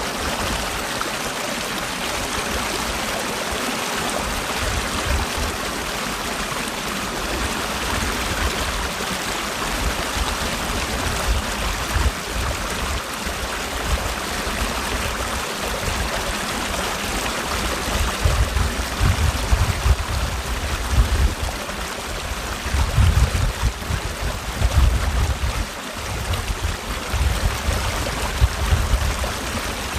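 Mountain valley stream rushing and splashing over rocks in a steady, full flow. A low rumble comes and goes in the second half.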